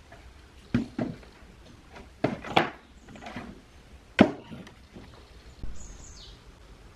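A series of separate knocks and clunks from objects being handled and set down on a hard surface, the loudest about four seconds in. A faint short squeak follows near the end.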